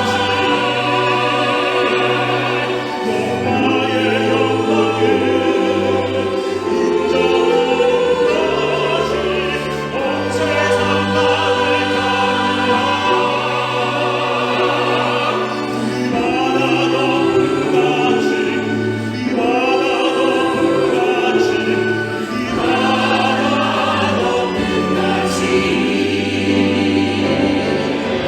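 Slow sacred music from an ensemble: a melody with vibrato over sustained, changing bass notes.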